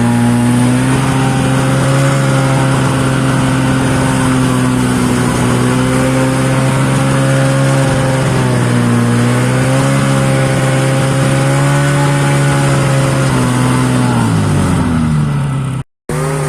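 Snowmobile engine with a modified muffler running at a steady, fairly constant speed, its pitch wavering slightly; near the end the revs drop, and the sound cuts out abruptly for a moment before resuming.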